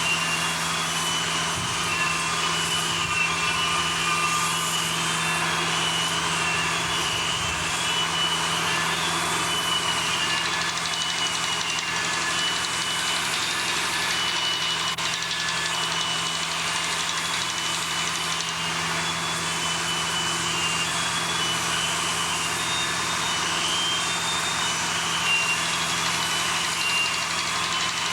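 Steady machinery noise with a constant low hum, and scattered short high-pitched squeaks over the top.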